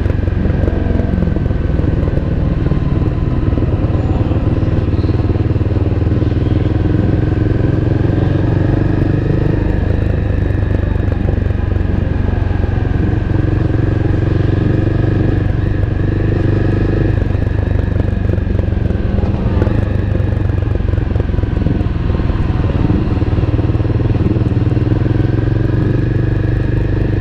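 Honda CBR250R's single-cylinder engine running steadily, heard from on board the motorcycle, with small shifts in engine pitch partway through.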